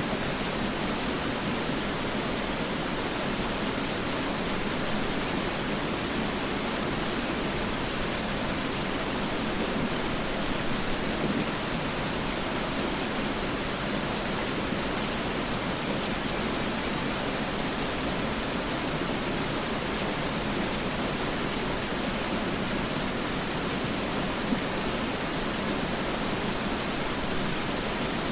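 Mountain river flowing: a steady rushing of water.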